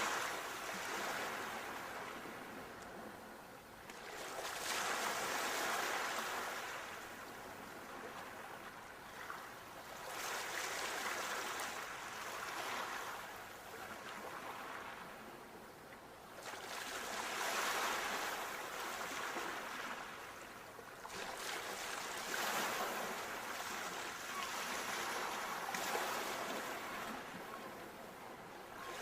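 Sea waves breaking on a shore, the surf swelling and falling back in slow surges every four to six seconds.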